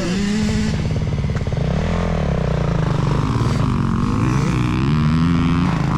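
Motocross dirt bike engines revving, the pitch rising and falling repeatedly as the bikes work around the track.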